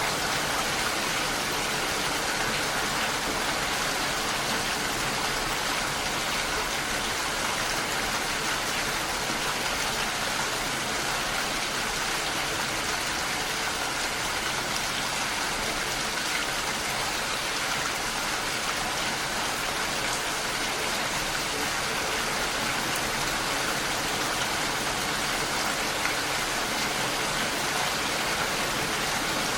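Steady rain falling, an even hiss of drops without a break or change.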